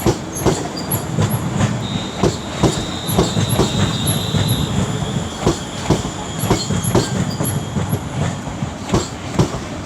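Class 350 Desiro electric multiple unit rolling into the platform, its wheels clacking over rail joints and points, with a low rumble underneath. A thin, high wheel squeal joins from about two seconds in and fades out around five seconds.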